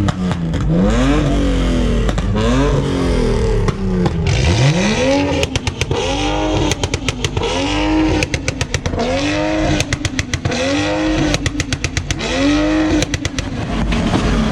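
Car engine revved in quick blips, then about six times brought up against a two-step launch limiter. Each time the revs climb and hang at one pitch while the limiter cuts in, stuttering with rapid pops.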